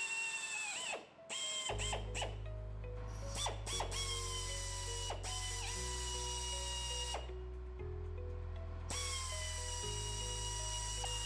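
Electric drill boring holes through a steel plate in several bursts. The motor whine sags as the bit bites and recovers between bursts, and stops briefly about a second in. Background music with low, stepping notes plays underneath.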